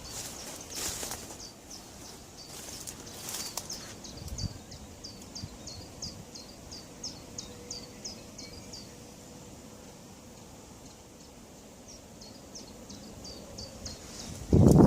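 A songbird calling outdoors, a rapid run of short, high, falling notes at about two or three a second that stops for a few seconds and then starts again. Right at the end a sudden loud low rumble cuts in.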